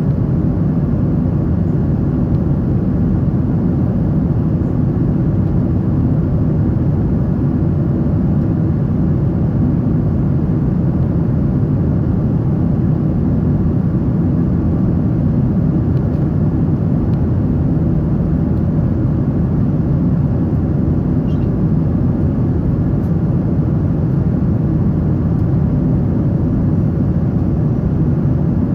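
Steady low rumble of a Boeing 777-300's engines and airflow, heard from inside the passenger cabin.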